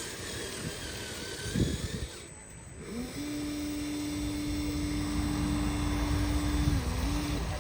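A small electric motor in an RC truck spins up and whines at a steady pitch, dipping briefly once before it stops. In the first seconds there are low rumbles and a thump or two.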